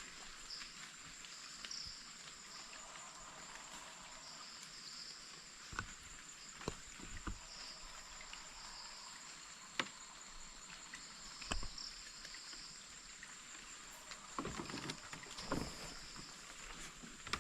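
Night insects calling: a steady high buzz with a pulsing chirp every second or so. A few scattered faint knocks and rustles come through, the loudest near the end.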